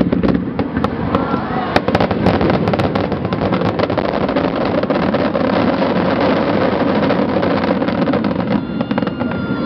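Fireworks going off in a dense barrage: many sharp bangs and crackles, closely packed, over a continuous din.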